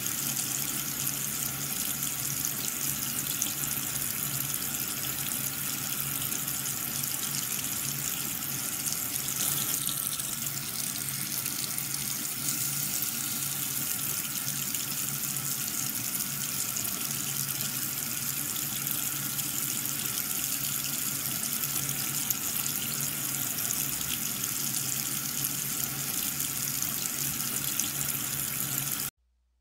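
Water running and splashing steadily from a small DIY water pump washing a toy tractor, with a steady low hum under it. It cuts off abruptly near the end.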